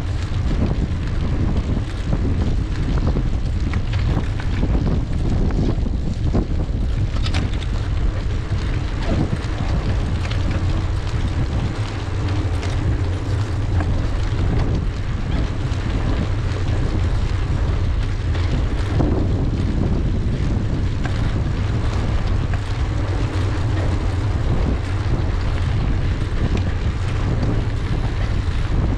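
Wind buffeting the microphone on a moving bicycle, a steady low rumble that holds at an even level.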